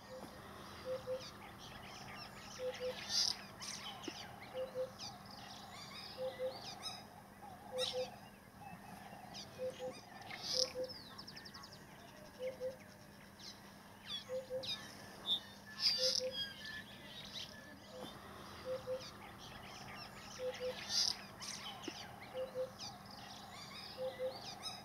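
Birds calling: a short low double note repeated about once a second, with scattered high chirps and a brief fast trill.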